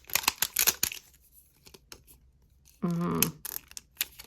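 Plastic packaging on a toy capsule being torn and crinkled open, in quick crackles during the first second and again near the end, with a pause between. A short hum of a voice comes about three seconds in.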